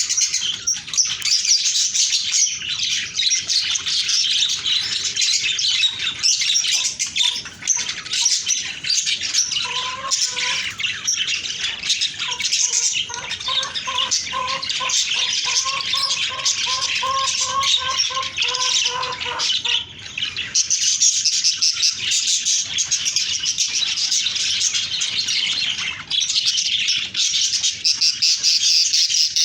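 Budgerigars chattering and chirping continuously in a busy, high warble. From about ten seconds in, a steadier, lower pitched tone runs alongside the chatter for roughly ten seconds.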